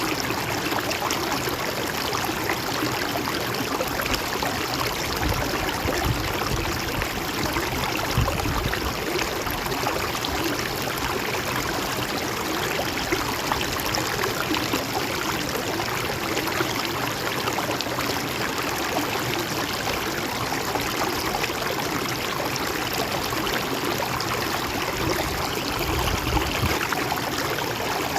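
Shallow river or stream flowing and burbling over rocks, a steady rush with small gurgles throughout.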